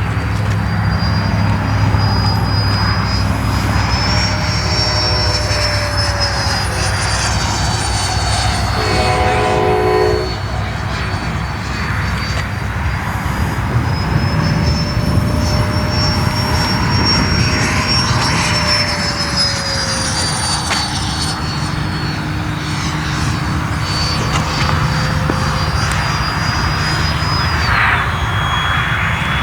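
Electric ducted-fan RC F-22 jet flying, its high fan whine over a broad rushing noise rising and falling in pitch as it passes and the throttle changes, dropping sharply near the end. A brief tone sounds about nine seconds in.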